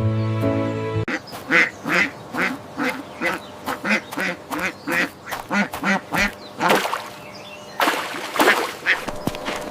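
A duck quacking in a quick run of short quacks, about two to three a second, with a few louder, harsher calls near the end.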